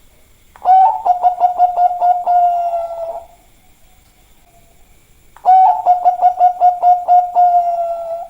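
Zebra dove (perkutut) singing its cooing song twice: each phrase is a quick run of pulsed coos at about six a second, ending in a drawn-out note, with a pause of about two seconds between the phrases.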